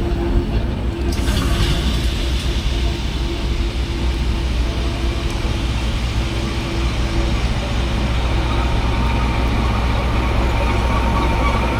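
Railway locomotive running with a steady low rumble; a hiss starts about a second in and carries on.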